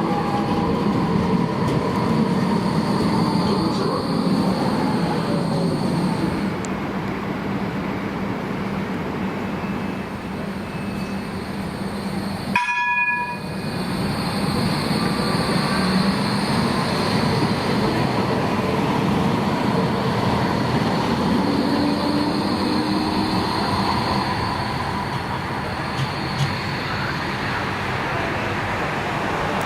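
Electric light-rail trams running through a tram stop: steady rail and wheel noise with a whine from the traction motors that rises and falls in pitch. The sound drops out briefly about 13 seconds in.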